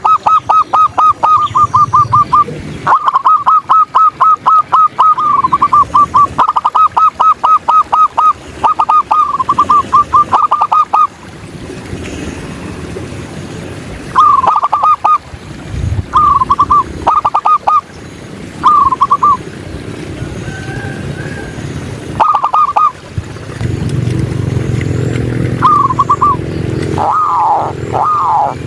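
Zebra doves (perkutut) calling: fast trains of short, clipped notes, about five a second, in runs of two to three seconds, then shorter bursts a few seconds apart. A low rumble comes in near the end.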